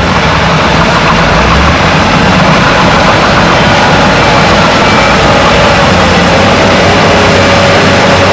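Heavy diesel earthmoving machinery running steadily, a loud engine drone with a faint whine that wavers in pitch from about halfway through.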